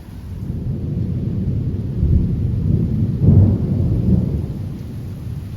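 Thunderstorm: a low rumble of thunder that swells about two seconds in and peaks a little after three seconds, then eases, over steady heavy rain.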